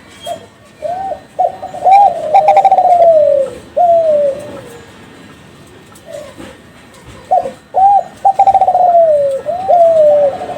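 Kelantan-strain spotted dove (derkuku/tekukur) cooing in two song phrases. Each phrase has a few short rising-and-falling coos followed by a longer rolling coo that slides down in pitch.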